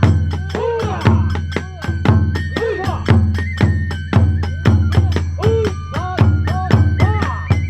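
Kagura hayashi ensemble playing: taiko drums beating a rapid, steady rhythm under a bamboo flute that holds high notes and swoops between them, with hand cymbals.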